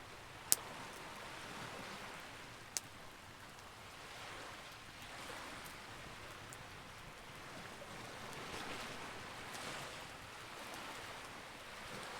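Campfire burning: a steady crackling hiss that swells and eases, with two sharp pops, about half a second and nearly three seconds in.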